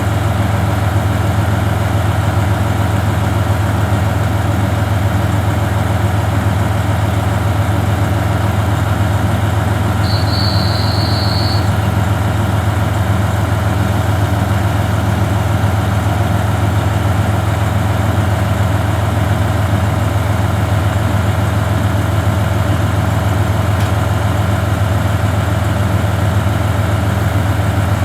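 KiHa 40 diesel railcar's engine idling with a steady low hum. A brief high tone sounds for about a second and a half, about ten seconds in.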